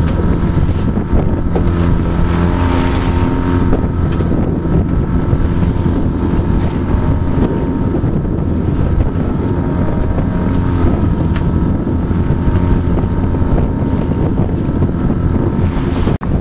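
A sailboat's motor running steadily under way, with wind buffeting the microphone and the rush of water around the hull.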